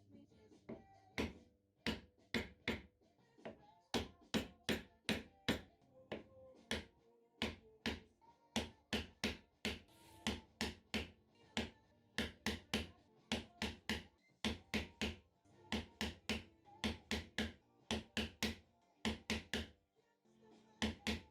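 A wood chisel is struck repeatedly, chopping out a hinge recess in the edge of a wooden door. Sharp knocks come in quick runs of two to four a second, broken by short pauses.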